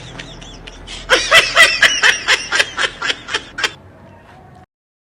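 A person laughing in a quick run of short, high snickers, starting about a second in and stopping shortly before four seconds, followed by a sudden cut to silence.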